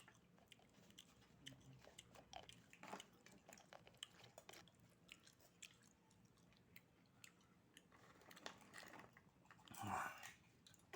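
Faint mouth sounds of a person chewing oysters: soft, wet clicks scattered throughout, with one louder breathy burst about ten seconds in.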